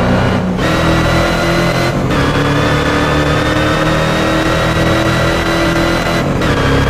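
Hennessey Venom GT's twin-turbo 6.2-litre LS9 V8 pulling hard, its pitch climbing slowly. There are short breaks in the sound about half a second in, at two seconds and near the end, each followed by a lower pitch, like upshifts.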